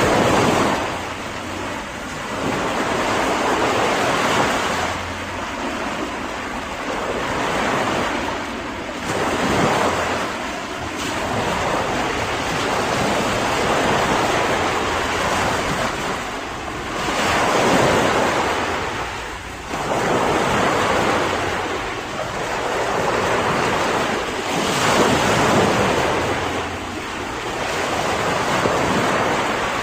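Sea surf: waves washing in and drawing back, the rush swelling and easing every few seconds.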